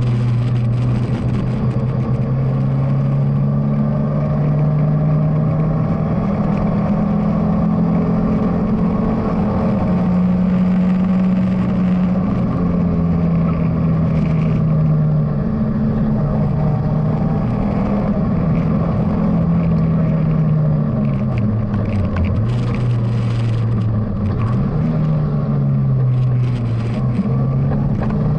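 BMW E30 316i's four-cylinder engine heard from inside the cabin under rally driving, its pitch climbing under acceleration, stepping at gear changes and dropping as the driver lifts off, with a sharp drop about three-quarters of the way through.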